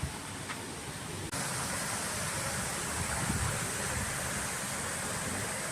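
Steady rushing background noise on a cruise ship's deck, with no distinct events. It steps up abruptly about a second in to a slightly louder stretch.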